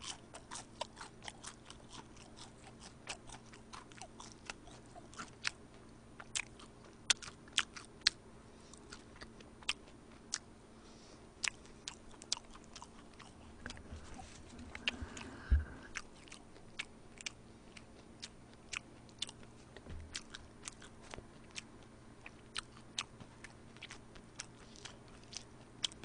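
A person chewing food close to the microphone: a scattered run of small, sharp mouth clicks and crunches. About halfway through there is a brief rustle and a single thump as a paper-wrapped burger is picked up.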